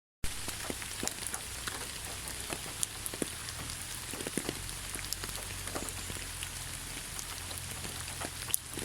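Steady rain falling, with many separate drops ticking and pattering irregularly over an even hiss.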